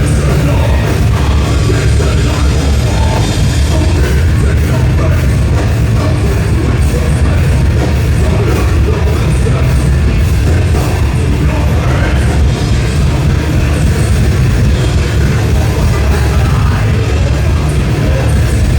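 Thrash metal band playing live: distorted electric guitars, bass and a pounding drum kit, loud and dense without a break, with some singing.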